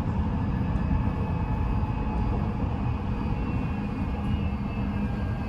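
Odakyu 5000 series electric train running, heard from inside the car: a steady rumble of wheels on rail with faint steady tones from its Mitsubishi full-SiC VVVF inverter drive.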